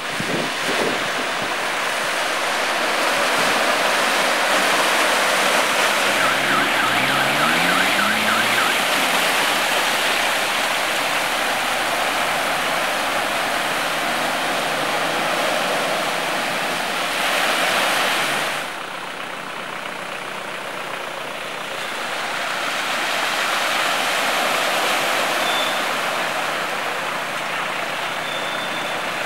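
Traffic driving through floodwater after heavy rain: a steady rushing, splashing hiss, with an engine rising in pitch about seven seconds in. The rush drops off suddenly a little past halfway, then builds again.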